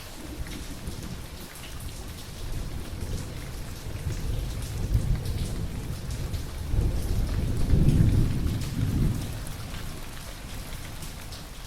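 Steady rain with a thunder rumble that builds about four seconds in, peaks around eight seconds, then dies away.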